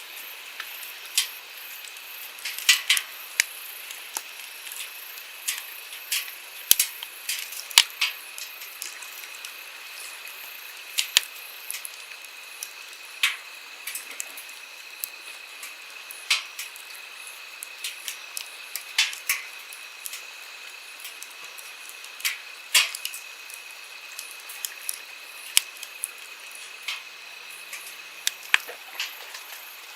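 Wood campfire crackling, with sharp pops and snaps at irregular intervals over the steady rushing hiss of a flowing stream.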